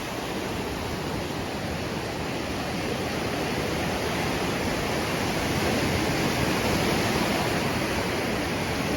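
Surf washing onto a beach at high tide: a steady rush of waves that swells a little louder partway through.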